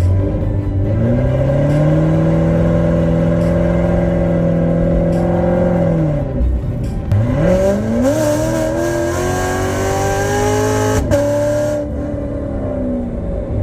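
C7 Corvette's V8 engine on the move. The revs climb and hold steady for several seconds, then drop off. They climb again for several seconds, with a brief break about eleven seconds in, before easing off near the end.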